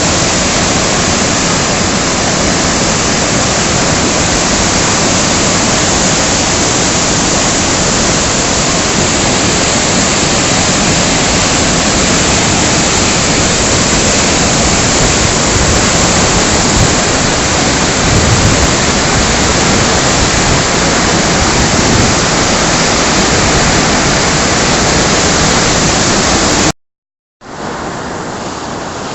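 Steady rush of the swollen, flooding Hidaka River. About 27 seconds in it cuts off abruptly, then returns more quietly.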